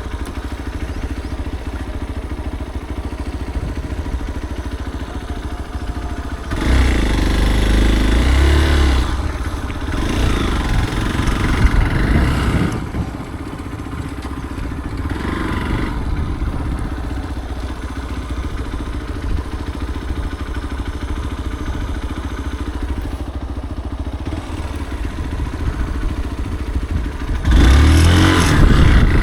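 Motorcycle engine running on a dirt trail, rising in pitch and getting louder as it revs harder a few times, about a quarter of the way in and again near the end.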